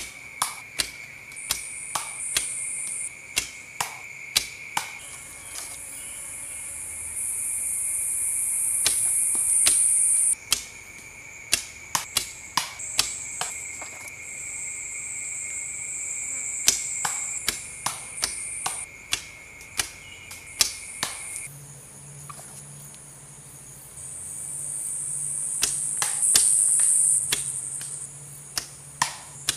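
Irregular sharp knocks and taps, some in quick clusters, typical of chopping or tapping wood while a bow is being made. Insects chirr steadily in the background, with a high buzz that comes and goes.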